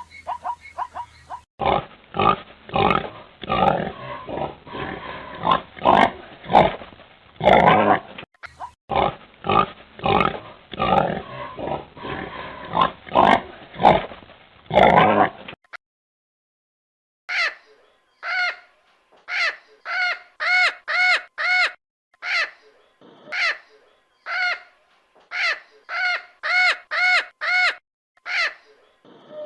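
Pig grunting over and over for about fourteen seconds. After a short pause comes a run of short, high, clear-pitched animal calls repeated in quick groups.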